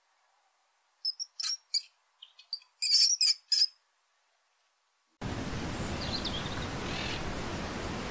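Bird chirps: a quick run of short, high notes starting about a second in and stopping before four seconds. After a short silence, a steady hiss of noise starts suddenly about five seconds in, with a few faint calls in it.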